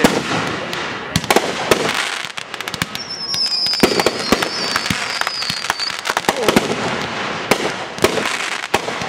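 Consumer 1.4G firework cakes firing: a rapid, irregular series of sharp bangs as shells burst overhead. About three seconds in, a high whistle comes in and falls slightly in pitch over nearly three seconds.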